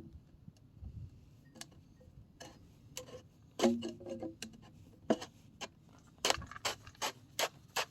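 A run of sharp clicks and knocks, sparse at first and then about three a second in the second half, with a louder knock and a short metallic ring a little before the middle.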